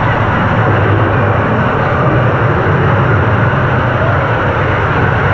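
Steady, loud, rushing noise of an indoor water-park hall, with a low hum underneath.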